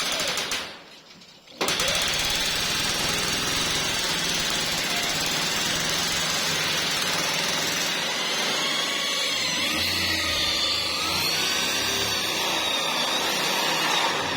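A power tool running steadily, cutting out for a moment about a second in and then starting again.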